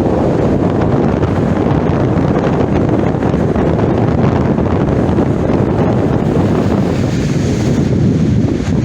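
Strong wind buffeting the microphone: a loud, steady rumbling rush with no pauses.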